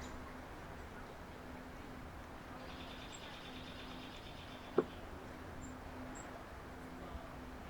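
A small bird's rapid trill, high in pitch and lasting about two seconds, with a few faint high chip notes, over a steady low hum. A single sharp click comes just before the five-second mark.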